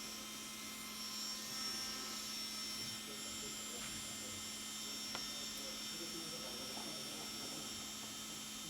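Steady hiss of a small electric fan or blower, with a constant electrical hum and faint high-pitched whines; two faint ticks come about four and five seconds in.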